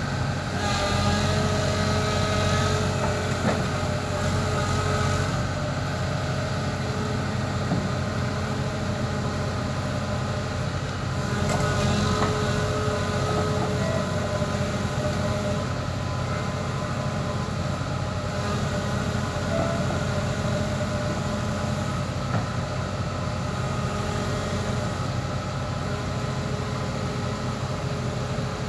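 Diesel engine of a Kobelco SK140 excavator running steadily, with a higher whine that comes and goes about four times as the machine works.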